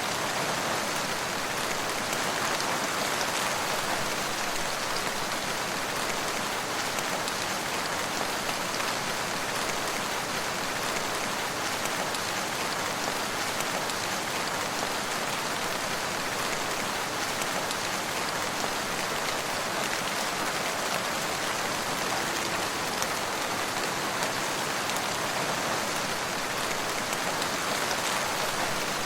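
Steady rain falling, with a fine patter of drops hitting a surface.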